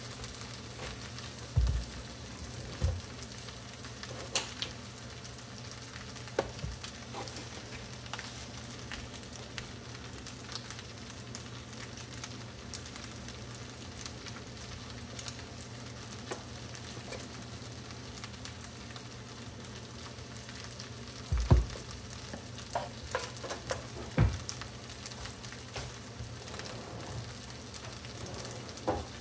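Fried rice sizzling steadily in a frying pan, with a few sharp pops now and then.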